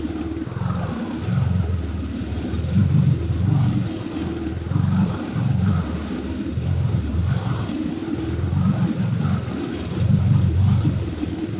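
Harbor Freight Predator 173cc single-cylinder OHV vertical-shaft engine on a walk-behind mower, running steadily under load while cutting grass, its level rising and falling as the mower is pushed back and forth.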